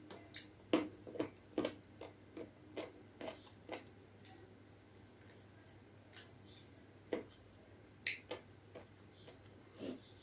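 A person chewing food with wet mouth clicks and smacks, about two a second for the first few seconds, then only a few scattered ones.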